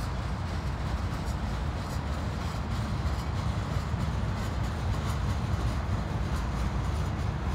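Long freight train rolling past with a steady low rumble, a mid-train Union Pacific diesel locomotive (distributed power unit) working among the cars.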